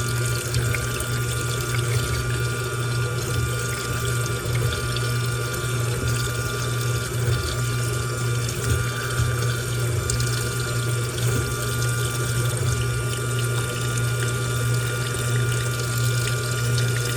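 Washing machine running with water flowing through it: a steady pump or motor hum with a thin whine over rushing, splashing water. The hum and whine cut off right at the end while the water sound carries on.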